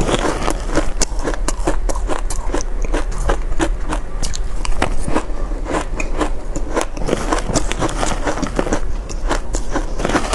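Close-up crunching of shaved ice being bitten and chewed: a dense, unbroken run of crisp crackles and crunches.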